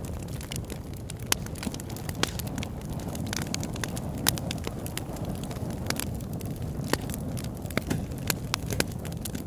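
Large log burning in an oil-drum fire pit, crackling with irregular sharp pops, a few of them louder, over a steady low rumble.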